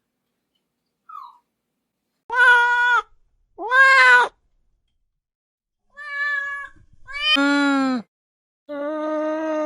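A domestic cat meowing five times in separate calls of under a second each, the first two higher-pitched and the last three lower.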